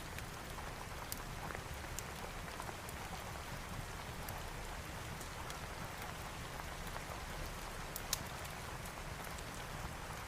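Steady rain with scattered sharp pops and crackles of a fireplace fire, the loudest pop about eight seconds in.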